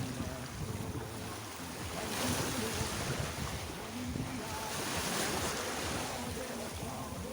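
Sea surf washing onto a beach, swelling twice as waves come in, with wind buffeting the microphone.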